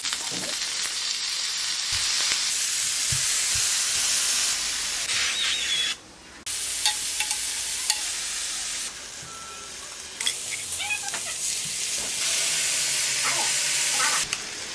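Napa cabbage rolls sizzling in hot oil in a frying pan, a steady hiss, with light clicks of metal tongs against the pan. The sizzle cuts out briefly about six seconds in and runs quieter for a second or so a little later.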